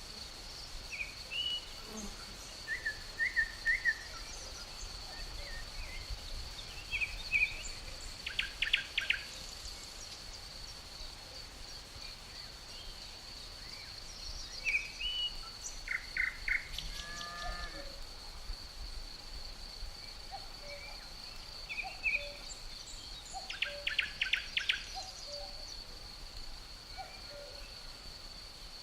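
Birds calling with short chirps and a few quick trills, over a steady high-pitched insect drone.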